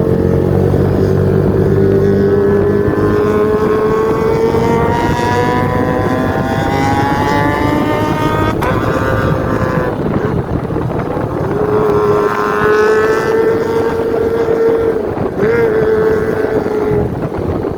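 Kawasaki ZX25R's 249 cc inline-four engine through an aftermarket undertail exhaust, running at high revs: the note climbs steadily for about eight seconds, a sharp click breaks it around the middle, then it holds a steady high pitch for several seconds with a quick blip near the end.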